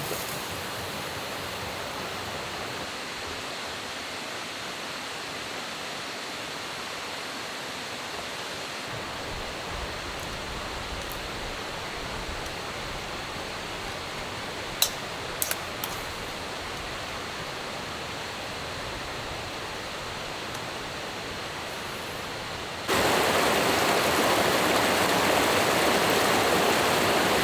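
Steady rushing of flowing stream water. The noise jumps suddenly louder near the end, and a few light clicks come about halfway through.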